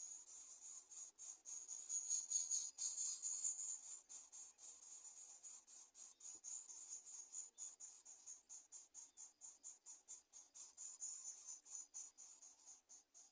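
Insects chirping: a steady, fast train of high-pitched pulses, about five a second, swelling louder for a couple of seconds early on and then easing back.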